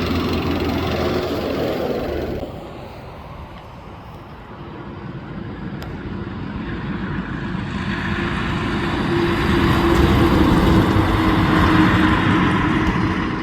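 Trucks passing on a road: one goes by and fades away about two seconds in, then another engine approaches, growing steadily louder to pass close by near the end.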